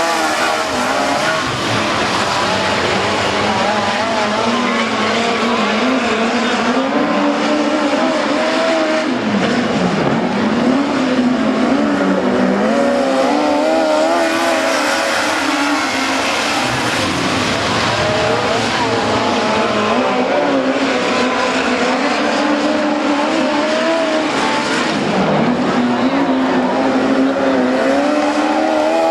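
A field of midget race cars running together, their engines rising and falling in pitch over and over as they go around the track.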